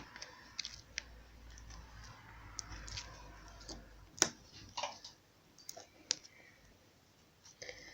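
Scattered small clicks and taps from slime being handled and set down, with a sharper click about four seconds in.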